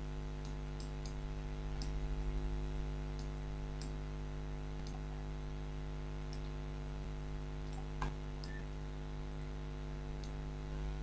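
Scattered sharp clicks from a computer mouse and keyboard, about eight of them spread irregularly, over a steady electrical hum.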